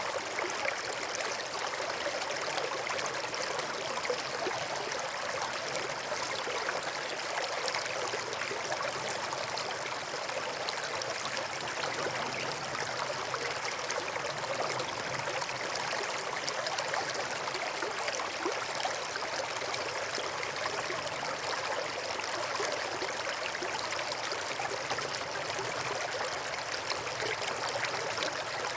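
A small brook flowing, its water babbling and trickling steadily.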